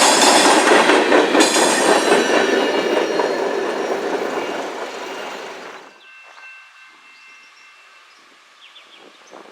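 Train cars passing close: a loud rumble with wheels clicking over rail joints. It fades and then cuts off suddenly about six seconds in, leaving a much quieter background.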